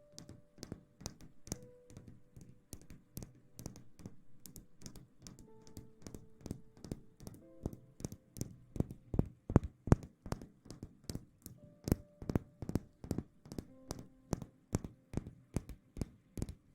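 Steady ASMR tapping, sharp taps about three a second that grow louder partway through, over soft background music with held notes.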